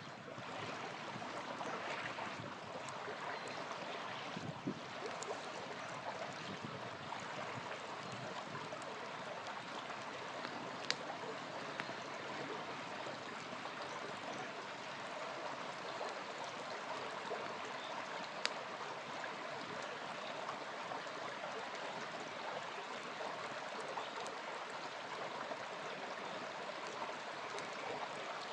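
Small river flowing steadily, a continuous rushing of water, with a few sharp pops from a crackling campfire, the clearest about a third and two thirds of the way through.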